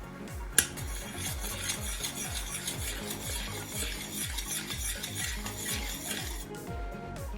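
A utensil stirring a mixture in a bowl, a steady scraping that starts just after a sharp click and stops about six seconds in. Background music with a steady beat plays under it.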